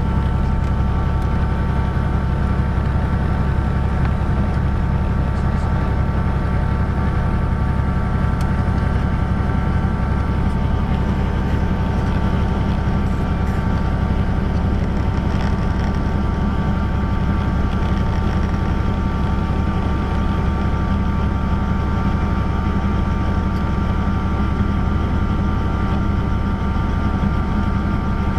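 Helicopter in flight: a steady heavy low drone of the rotor and engine with a constant high whine on top.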